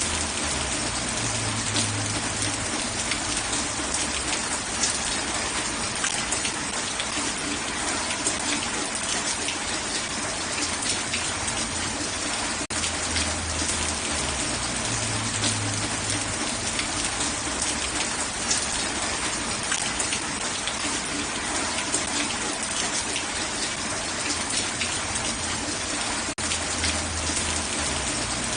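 Steady heavy rain, a dense hiss of pattering drops, with a low rumble that swells and fades about every 13 seconds.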